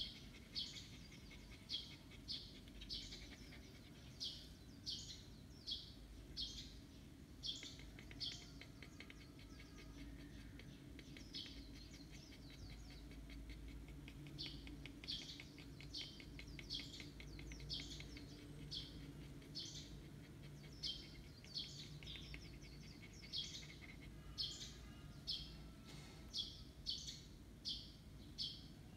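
A bird chirping over and over in short, high chirps about twice a second, with a fast rattling run of clicks around ten seconds in.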